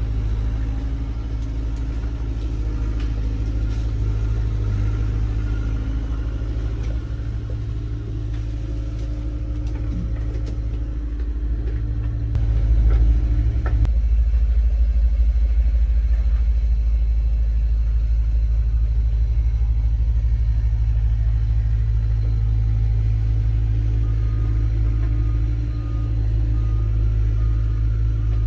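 Engine of an old GMC logging truck running with a steady low rumble, growing louder a little under halfway through.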